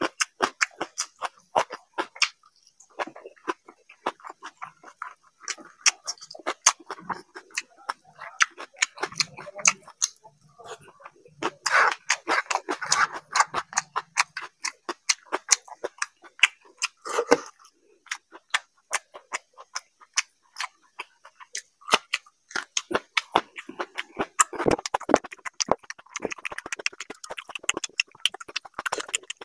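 Close-miked chewing and lip smacking of a person eating by hand: a steady run of quick, wet mouth clicks, with a few short pauses.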